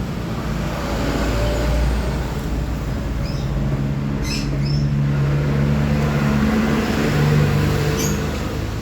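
Yamaha RX-King two-stroke motorcycle engine running through an aftermarket stainless exhaust silencer, with its pitch wavering a little. A few short bird chirps are heard over it.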